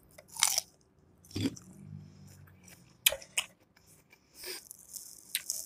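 A person chewing a mouthful of tossed salad close to the microphone, with several short, sharp clicks.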